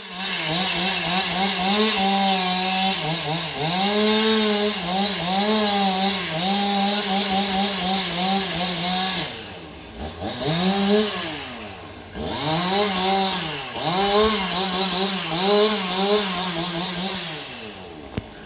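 Gas chainsaw cutting tree wood: the engine runs at high revs, dipping in pitch under load and picking back up again and again. It drops off briefly around ten and twelve seconds in, revs back up each time, and eases down near the end.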